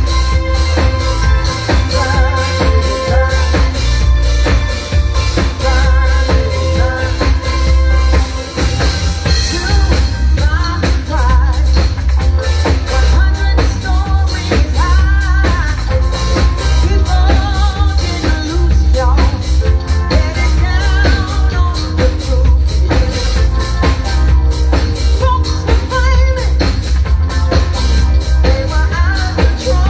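Live rock band playing a song: a singer over a drum kit with a strong, steady bass line.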